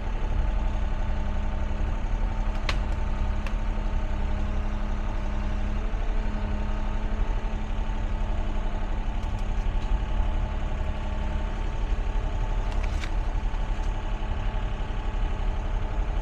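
Excavator's diesel engine running steadily, with a few sharp clicks or knocks now and then.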